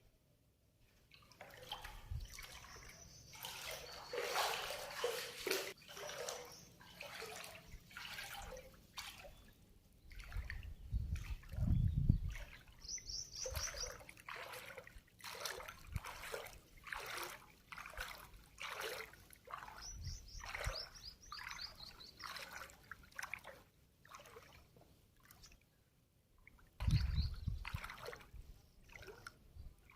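Floodwater sloshing and splashing in repeated strokes, about one or two a second, with a few short bird chirps and low rumbling thumps about a third of the way in and near the end.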